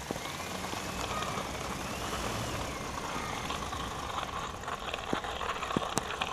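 A truck running with a steady low rumble. A faint warbling tone rises and falls through the first few seconds, and a few sharp clicks or knocks come near the end.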